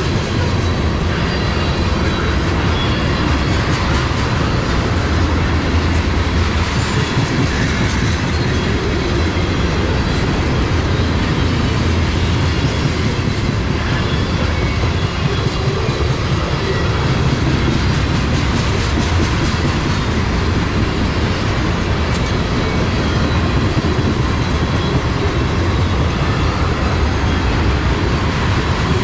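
Freight train cars rolling steadily past, with the continuous rumble and clickety-clack of steel wheels on the rails.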